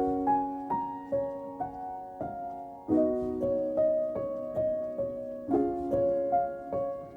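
Gentle background piano music: a slow melody of single notes over sustained chords that are struck afresh every few seconds.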